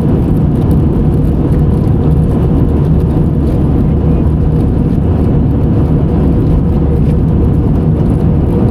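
Steady drone of an airliner's jet engines and airflow heard inside the passenger cabin, a loud, even low hum that holds unchanged.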